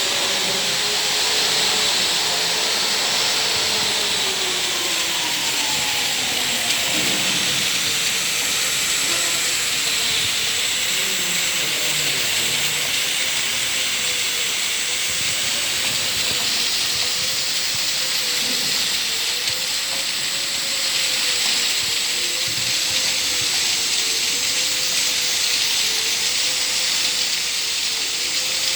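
Rotating ultrasonic vial washing machine running: a steady hiss with a faint whine underneath that wavers slowly up and down.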